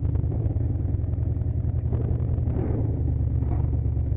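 Full-size pickup truck's engine running steadily as the loaded truck pulls away, heard from inside the cab.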